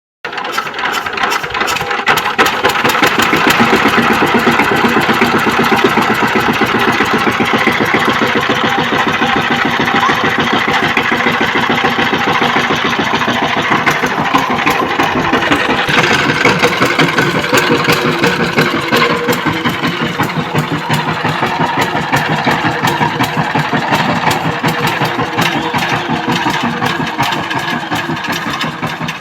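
Power tiller engine running with a rapid, steady beat of firing pulses, growing louder over the first couple of seconds and then holding even.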